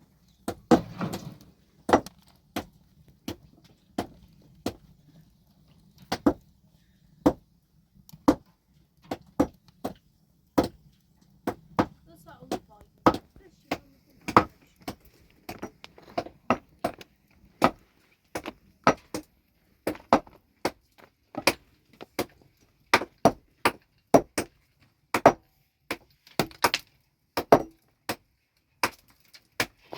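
Rock being worked with hand tools: a long run of sharp, irregular knocks of hard tool on stone, about one to two a second.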